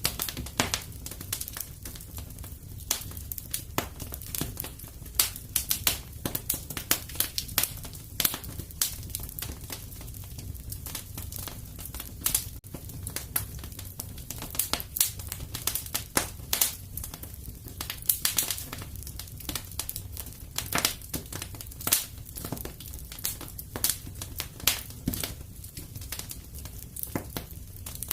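Fireplace wood fire crackling: frequent irregular pops and snaps over a steady low rumble of the burning fire.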